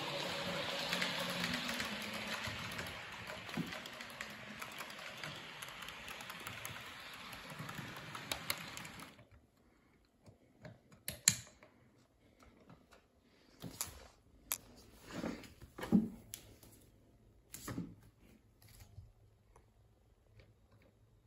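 Class 444 electric train running by, its steady rail noise slowly fading, then cutting off abruptly about nine seconds in. After that come scattered clicks and knocks over near silence.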